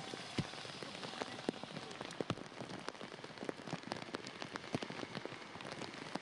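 Heavy rain falling on floodwater and cars: a steady hiss with a dense, irregular patter of sharp drop impacts.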